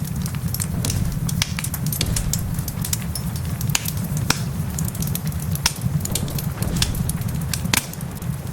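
Wood fire crackling in a fireplace, with frequent sharp, irregular pops over a steady low rumble.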